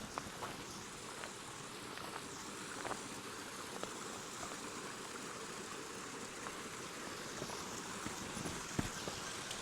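A mountain stream's water rushing steadily, with a few small clicks scattered over it, the sharpest near the end.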